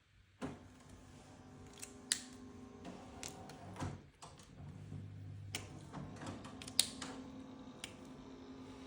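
Close-up desk handling of paper, stickers and pen: a run of irregular clicks and taps over a steady low hum. The loudest click comes about two-thirds of the way through.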